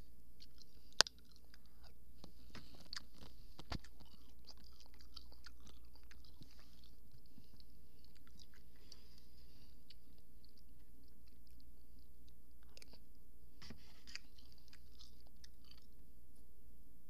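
Close-up chewing: wet, crunchy mouth clicks going on through most of the stretch, with a sharp click about a second in and a knock a little before four seconds.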